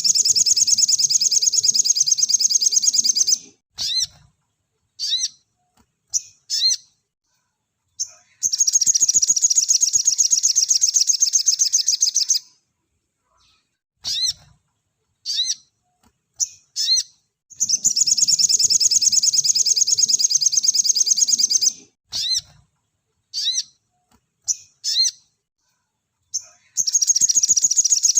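Crimson sunbird (sogok ontong) singing in long, rapid, high trills of about four seconds each, which come back roughly every nine seconds. Between the trills are short, separate, sharp chip notes.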